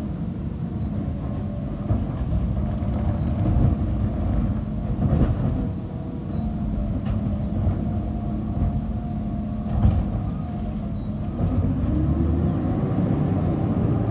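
Garbage truck engine running steadily, with a few short knocks; about twelve seconds in the engine speeds up, its pitch rising and holding higher before it drops back.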